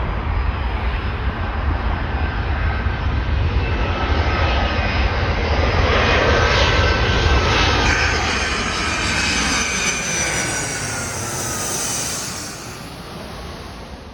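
Boeing 757 jet airliner flying past low: a heavy rumble with a whining engine tone that falls in pitch as it goes by, loudest past the middle, then fading near the end.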